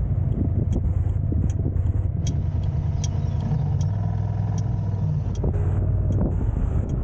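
Car driving: a steady low rumble of engine and road noise, with a faint pitched hum that rises and falls in the middle, and scattered light high ticks.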